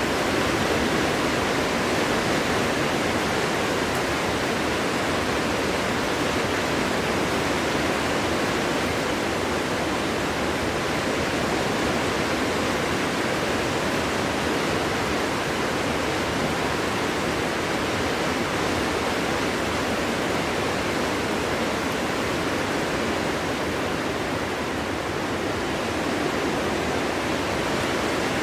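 Winter wind blowing steadily through a forest: an even, unbroken rushing hiss with no distinct gusts.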